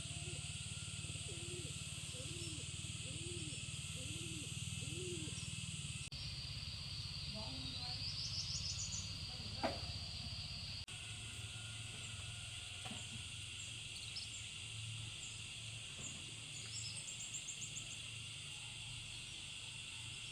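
Rural outdoor ambience: a steady chorus of insects with quick runs of bird chirps, and a short series of low repeated calls in the first few seconds.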